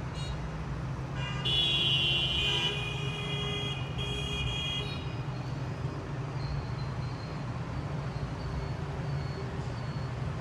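Steady low rumble of city traffic. A vehicle horn sounds about a second and a half in, held for about two seconds, then gives a shorter second blast about four seconds in.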